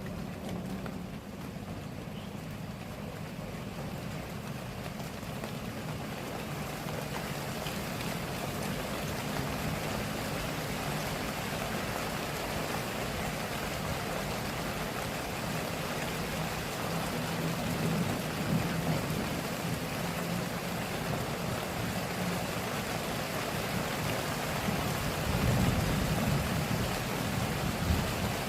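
Steady downpour of rain that grows heavier over the first several seconds, with a low rumble underneath that swells near the end.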